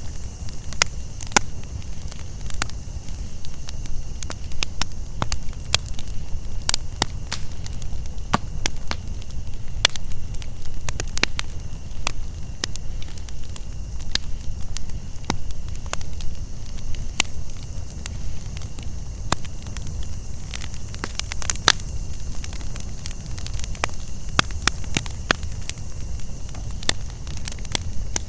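Campfire crackling with frequent irregular sharp pops over a steady low rumble, with a steady high chorus of crickets and cicadas behind it.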